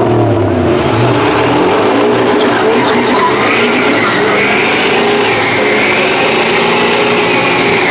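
Truck engines revving hard and steadily, their pitch wavering up and down throughout.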